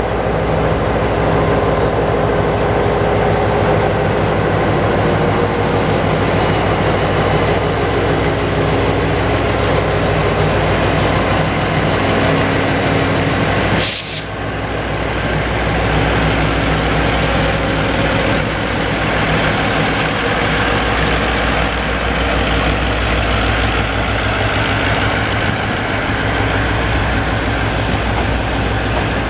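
Container freight train pulling out of a station: the locomotive's steady low hum with wagon and wheel noise, and one sharp crack about halfway through.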